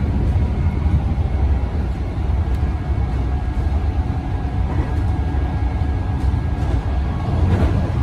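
Metro Trains Melbourne suburban electric train running: a steady low rumble with faint steady tones above it.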